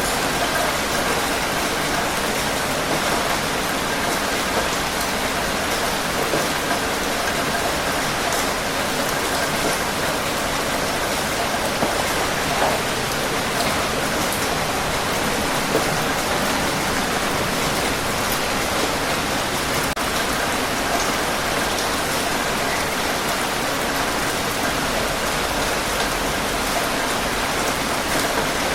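Heavy, steady rain falling on surfaces, a dense even hiss with scattered individual drop ticks.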